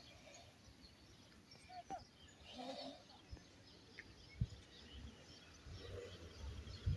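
Faint outdoor ambience with scattered faint bird chirps, and two short low thumps, about four and a half and seven seconds in.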